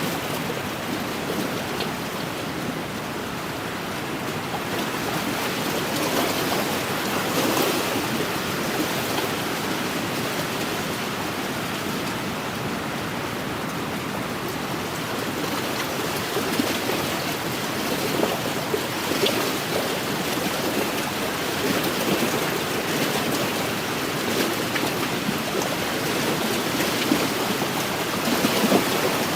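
Small wind-driven waves lapping and splashing against the shore of an inland lake, a steady wash of water that swells and eases every few seconds.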